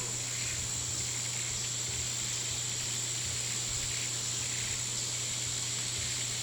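Steady nature ambience: a continuous high, insect-like drone over a low steady hum, with no change throughout.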